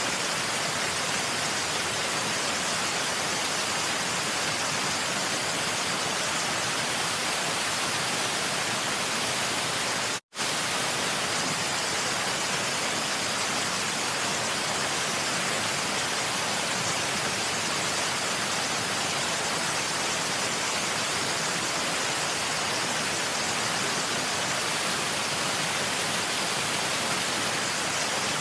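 Steady, even rushing hiss of waterfall noise, with a momentary cut to silence about ten seconds in.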